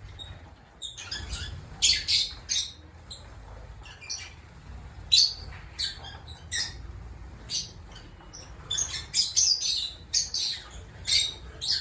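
African lovebirds chirping and squawking in short, shrill calls that come irregularly, several close together at times.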